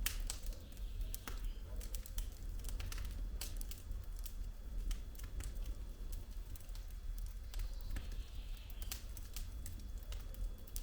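Wood fire burning in a fireplace, the logs crackling with irregular sharp pops and snaps over a low, steady rumble of the flames.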